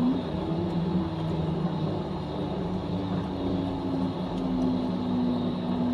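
Fisher & Paykel top-loading washing machine in its final spin: a steady motor hum and whine whose pitch drifts slowly lower.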